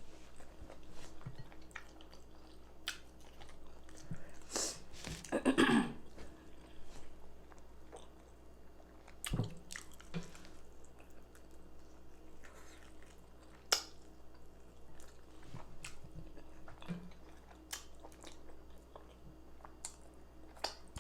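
Close-miked chewing and biting of baked chicken and rice: wet mouth noises and sharp clicks, with a louder burst about five seconds in.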